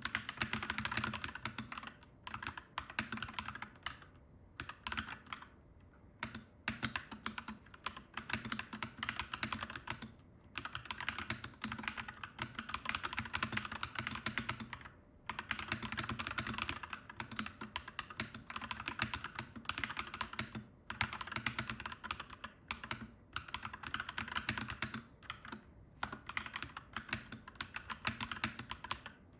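Clacky mechanical keyboard being typed on quickly. The keystrokes come in runs of a few seconds, with short breaks between them.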